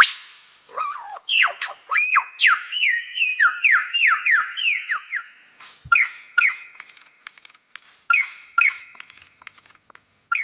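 A bird's whistled song: a fast run of short notes, each sliding downward, then a string of short, evenly repeated call notes.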